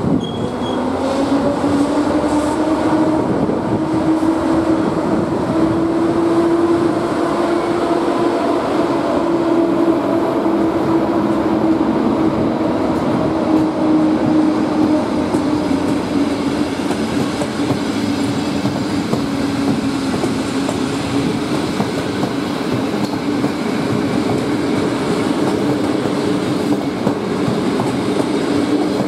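An EP07 electric locomotive passing, followed by its long train of passenger coaches rolling by, wheels clattering over the rail joints. A steady hum runs underneath, rising a little in pitch over the first several seconds and then slowly falling.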